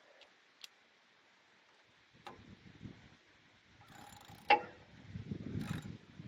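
A few sharp metallic clicks and clinks from tools and engine parts being handled, the loudest about four and a half seconds in with a brief ring, over low wind rumble.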